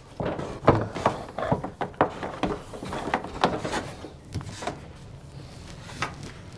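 Irregular light clicks and knocks of heater cables and their plugs being handled and pushed along a wooden cable channel, thinning out after about five seconds.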